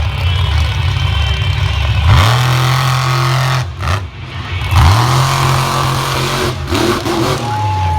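Monster truck's supercharged V8 revving hard twice. Each time the pitch shoots up and is held high for a couple of seconds, then drops back.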